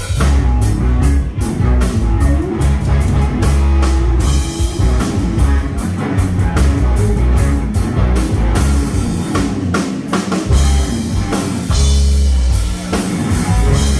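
Live band playing an instrumental passage of a blues-rock groove, with drum kit hits and guitar.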